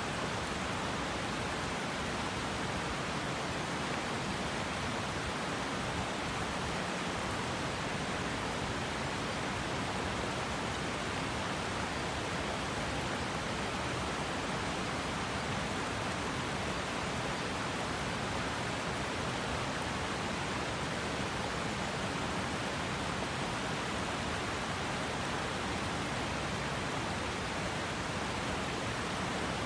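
Steady rushing of a river's flowing water, an even noise with no distinct splashes or changes.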